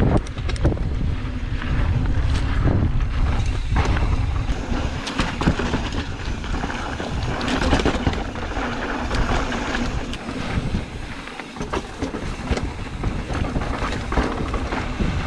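Mountain bike being ridden on a dirt trail: tyres rolling over dirt and rock, with scattered clicks and knocks from the bike, and wind rumbling on the microphone.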